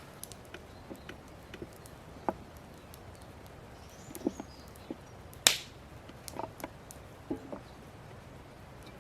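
Scattered light knocks and clicks, with one sharp clack about five and a half seconds in and a few duller knocks around it.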